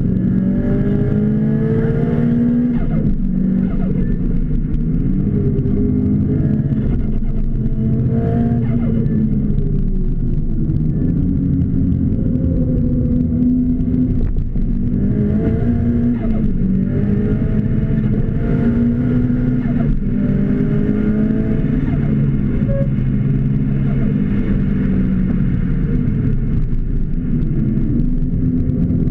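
Car engine heard from inside the cabin while driven hard on a race track, its pitch climbing under acceleration and dropping back again and again as the car speeds up and slows for the corners.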